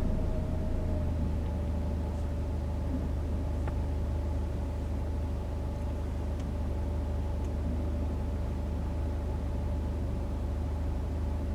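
Car cabin sound while driving: a steady low rumble of tyres and engine, with a faint steady whine above it.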